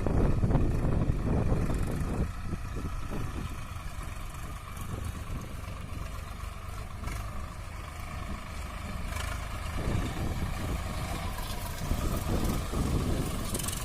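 Swaraj 744 FE tractor's three-cylinder diesel engine running. It is louder for the first two seconds, then settles to a steadier, lower running note, and picks up again about ten seconds in and once more near the end.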